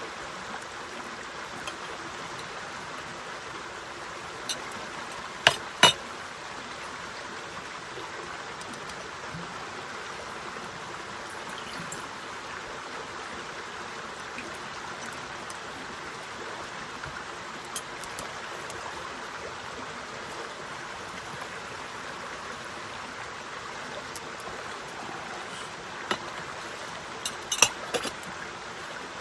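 Steady rain hiss, with a few sharp cracks: two a little over five seconds in and a cluster near the end.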